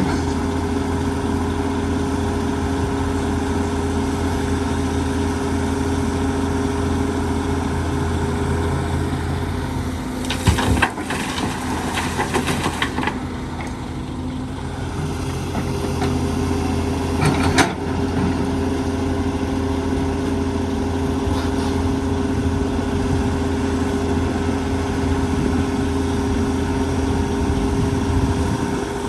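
Heavy diesel engine of an excavator running steadily. A stretch of rattling noise comes about ten seconds in, and a short burst a few seconds later.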